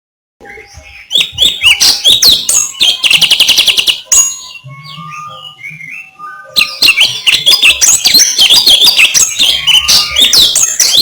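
A songbird singing a loud, fast, varied song of chirps, sweeping whistles and rapid repeated notes. The song eases off to a few fainter notes for about two seconds in the middle, then resumes as dense chatter.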